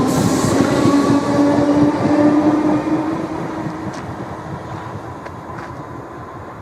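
Train passing close by, its running noise carrying a faint steady whine, then fading away over the last few seconds as it draws off.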